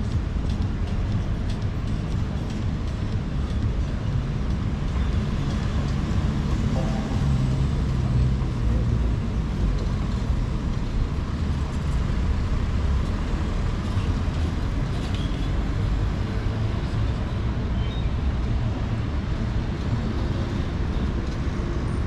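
City street traffic: a steady low rumble of passing cars and buses, with no pauses.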